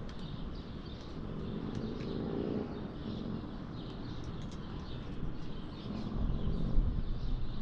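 Small birds chirping in short repeated calls over a steady low background rumble, which swells briefly about six to seven seconds in.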